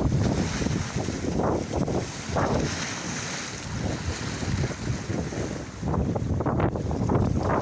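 Strong wind buffeting the microphone in uneven gusts, over the wash of a choppy sea.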